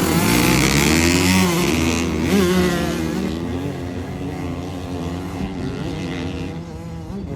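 Dirt bike engines revving, their pitch rising and falling, slowly fading as they ride away.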